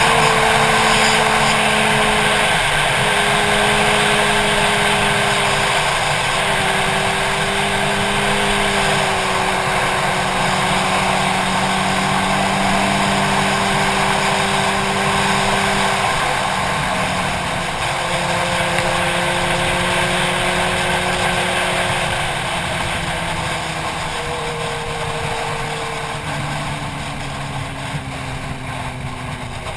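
Motorcycle engine running at steady road speed under heavy wind rush. The engine note shifts in pitch a few times, dipping and settling with throttle changes.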